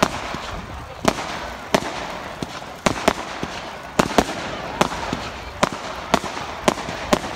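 Fireworks display: about a dozen sharp bangs of exploding shells at uneven spacing, roughly one to two a second, over a steady hiss.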